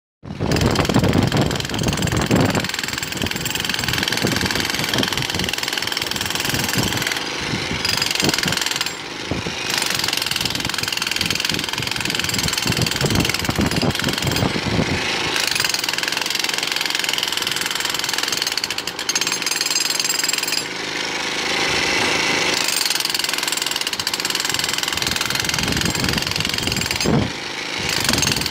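Jackhammer hammering in rapid, continuous strokes, letting up briefly a few times.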